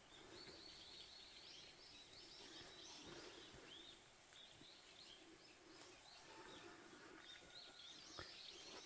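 Near silence with faint bird chirping: a string of quick, high, rising-and-falling notes that thins out over the last couple of seconds.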